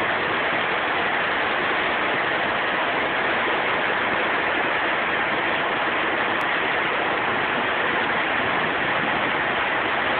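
Rain falling steadily in a thunderstorm, an even hiss with no breaks.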